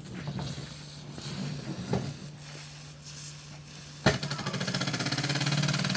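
Mamod toy steam tractor's little steam engine: a steady low hum with faint knocks, then a sharp click about four seconds in and the engine running with a rapid, even beat that grows louder.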